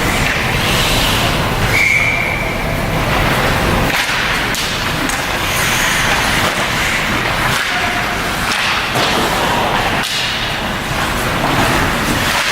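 Ice hockey game noise: a steady low rumble with scattered sharp knocks from sticks and puck, and a brief high tone about two seconds in.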